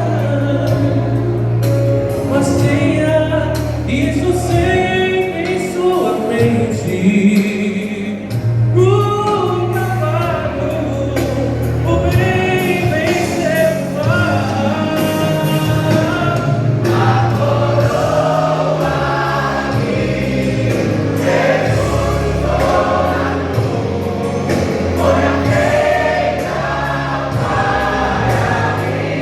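Gospel vocal group singing a worship song in several-part harmony, with sustained low bass notes from the accompaniment underneath.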